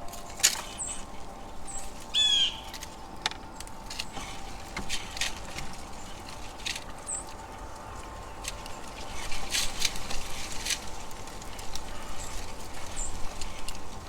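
Backyard birds chirping in short high calls, one of them a longer falling call about two seconds in, over scattered sharp clicks and taps. The ringing of a wind chime fades near the start.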